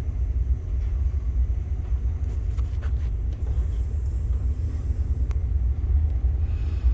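Wind buffeting the microphone: a low, gusty rumble that rises and falls unevenly, with a few faint clicks.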